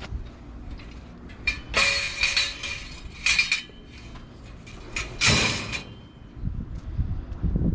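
Junk being rummaged through: hard objects clanking and rattling against each other in three bursts, with a ringing metallic note and a few lighter knocks between.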